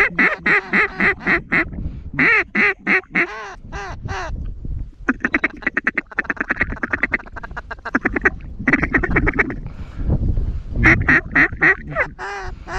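Duck quacking: loud runs of quacks, a faster chattering series in the middle and another burst of quacks near the end. Wind rumbles on the microphone underneath.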